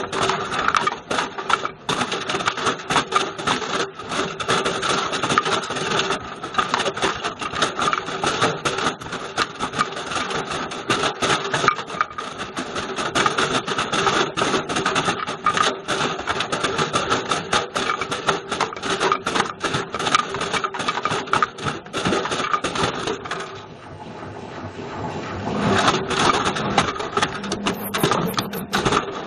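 A Bush VCR807 video recorder tumbling in a Beko washing machine's drum, making a loud, dense, irregular clatter of knocks. It eases off for a couple of seconds near the end, then picks up again.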